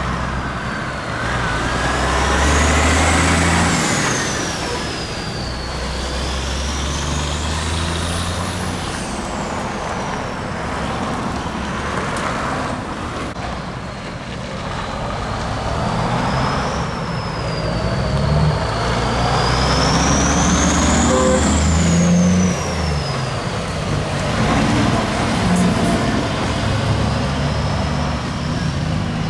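Heavy trucks' diesel engines running as a convoy moves off. A high whistle rises and falls several times over them.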